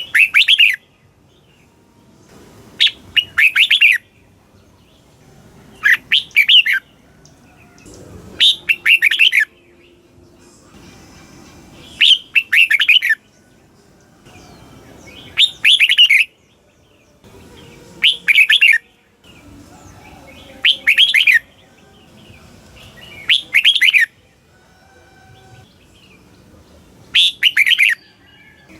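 Red-whiskered bulbul singing: short, bright warbled phrases about a second long, repeated about every three seconds, ten times in all.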